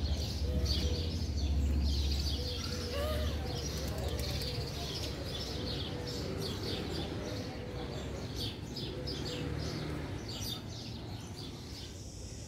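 Small birds chirping over and over in quick short notes, with a faint wavering murmur that may be distant voices and a low rumble that is strongest in the first few seconds.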